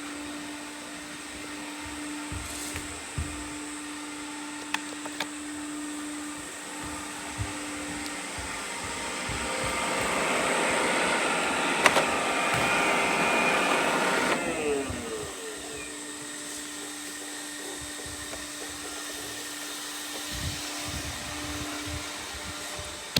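Robot vacuums running with a steady motor hum and scattered light knocks. About ten seconds in, a louder whirr builds, then around fourteen seconds it winds down with a falling pitch as a vacuum's motor is switched off.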